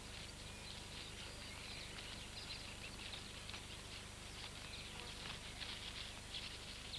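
Faint quick high chirps and ticks of birds, thickening after about two seconds, over a steady low hum.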